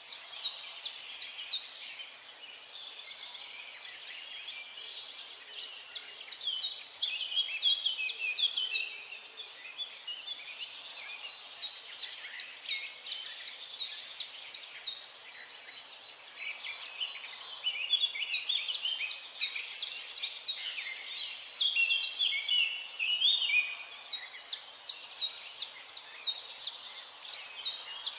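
Birds chirping: many quick, downward-sliding chirps in rapid series, coming in busier and thinner bursts. A faint steady high tone runs underneath.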